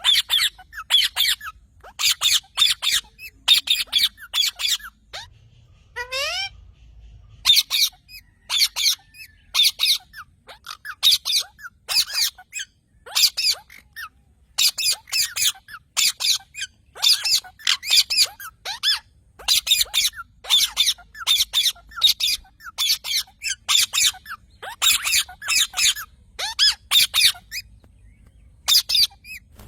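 Parrot squawking, many short harsh calls repeated in quick runs, with one rising whistle about six seconds in.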